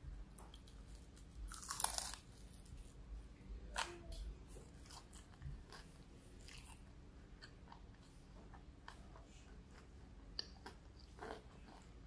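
Close-up eating: a crunchy bite into crispy fried food about two seconds in, then chewing with small mouth clicks and smacks.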